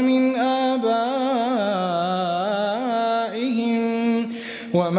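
A male reciter chanting the Quran in melodic tajweed style, drawing out one syllable in a long, wavering, ornamented line. Near the end he takes a quick breath and starts the next phrase.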